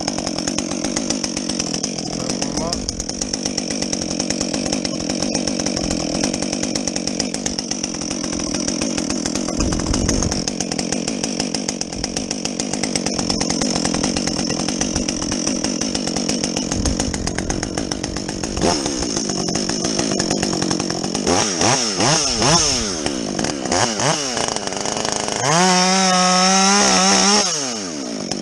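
Husqvarna 562XP two-stroke chainsaw with a modified muffler, running at a steady high pitch as it cuts through a log. Near the end the engine revs up and down several times, then holds full revs for about two seconds before dropping back.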